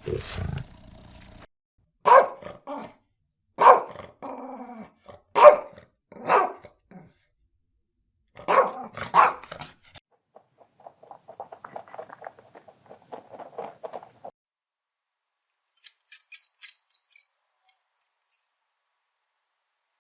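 Dog barking: about six loud, sharp barks spaced one to two seconds apart. A quieter rapid rattling sound follows, and near the end comes a string of short, high chirps.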